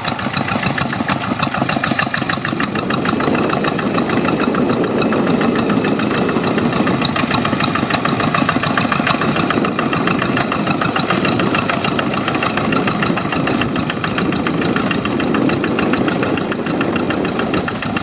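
Two-wheel hand tractor's single-cylinder diesel engine running steadily under load with a rapid, even chugging.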